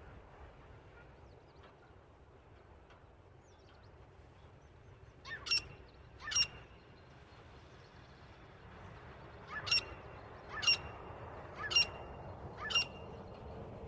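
Francolin (titar) calling: two short, sharp rising notes about halfway through, then a run of four more about a second apart near the end.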